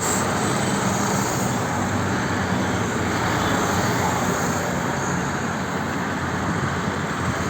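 Steady road traffic noise: an even rush with a faint low engine hum underneath.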